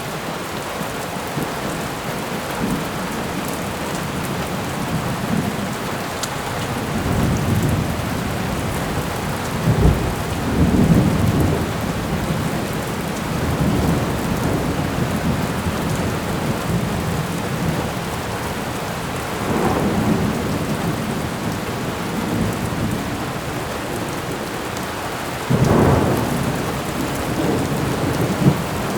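Thunderstorm: steady rain with several low rolls of thunder, the loudest about ten seconds in and again near the end.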